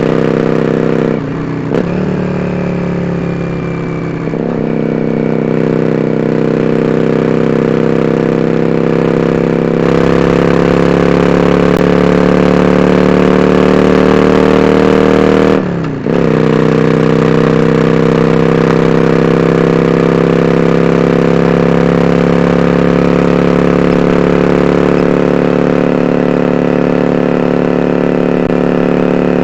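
Yamaha XVS400 Drag Star Classic's V-twin engine running through dual open-end Supertrap mufflers under way, its note rising slowly as the bike pulls in gear. There is a shift near the start and another about sixteen seconds in, where the sound dips for a moment and comes back at a lower pitch.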